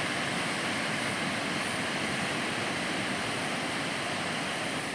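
Ocean surf breaking on the beach: a steady, even wash of waves.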